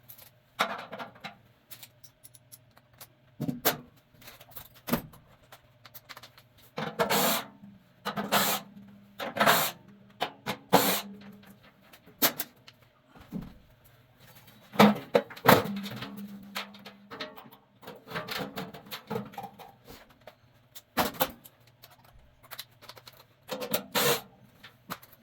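Irregular metal clanks, knocks and scrapes of a burnt-up furnace blower being worked loose and pulled out by hand, over a steady low hum.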